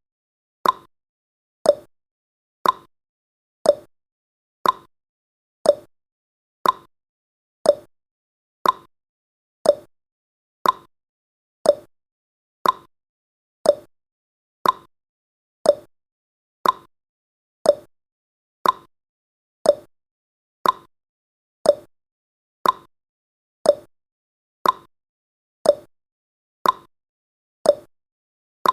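Clock-style tick-tock timer sound effect: short, sharp ticks about two a second, alternating slightly in pitch, with silence between them.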